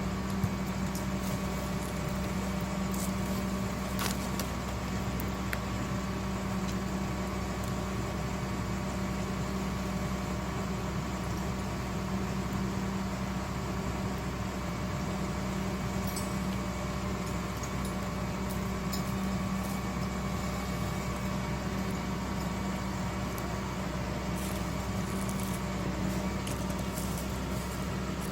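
Excavator's diesel engine running steadily, a constant low hum, with a few faint clicks on top.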